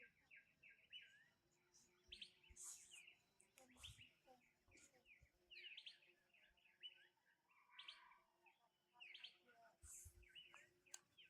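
Faint, rapid high-pitched chirping calls, many short notes and quick upward sweeps overlapping, with a few scattered clicks.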